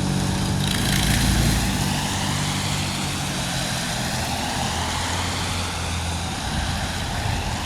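Motor vehicle engine idling steadily, with road traffic noise around it and a brief swell of noise about a second in.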